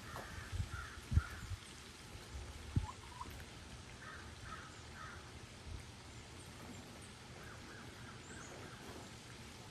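Domestic geese honking in three short runs of two or three calls each. There are a few low thumps in the first three seconds.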